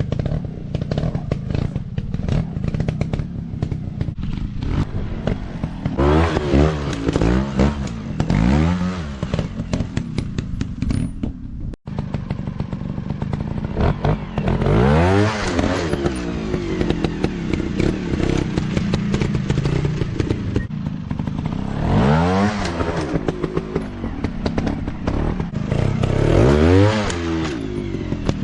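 Dirt bike engines running with repeated throttle revs, each rising and falling in pitch, along with many sharp clicks and knocks. The sound cuts out for an instant about twelve seconds in.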